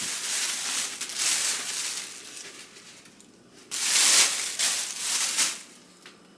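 Raw chicken pieces being tossed and rubbed in flour, a dry rustling, shuffling noise in two long spells with a short pause between.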